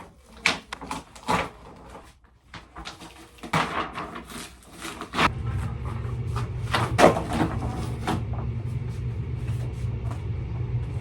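A few sharp knocks and clatters, like doors or a cupboard being handled. About five seconds in, a steady low vehicle rumble starts and carries on.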